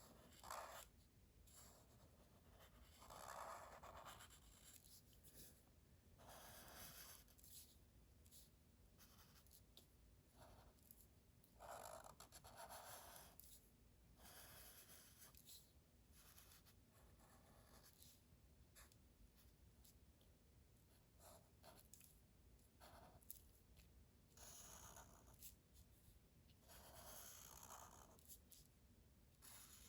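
Felt-tip marker squeaking and scratching on paper in short strokes, tracing over pencil lines.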